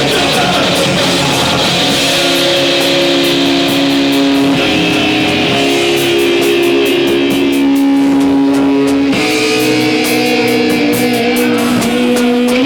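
Rock band music playing loud: electric guitar holding chords that change every two seconds or so, over a steady, even cymbal beat.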